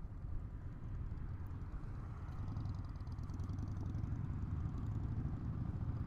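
Honda SCL500's parallel-twin engine running while the motorcycle is ridden: a steady low drone that grows a little louder about two seconds in.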